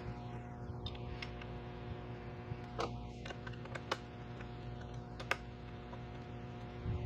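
A few small, sharp metallic clicks and taps, irregularly spaced, as a hex key and bolts are handled and threaded into an aluminium rack bracket, over a steady low hum.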